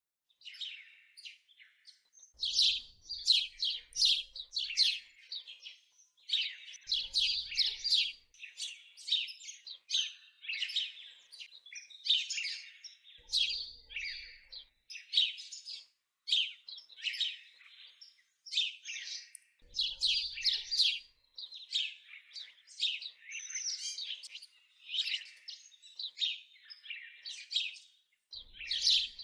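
Small birds chirping and singing in rapid, high, overlapping trills and twitters, in bursts with brief pauses between them.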